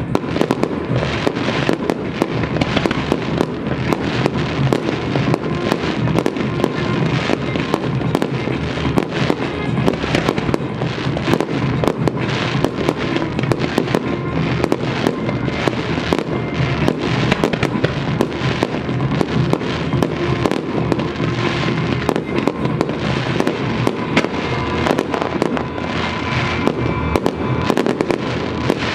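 Fireworks display going off continuously: a dense, rapid barrage of bangs and crackles with no let-up, with the show's music playing underneath.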